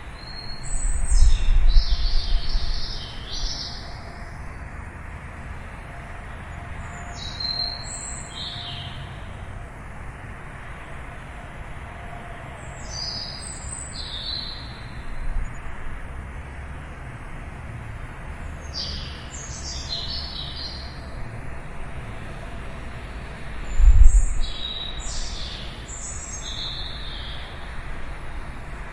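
A songbird chirping a short, repeated high-pitched phrase about every six seconds, five times. Underneath is a steady low rumble that swells loudly twice, about a second in and again about two thirds of the way through.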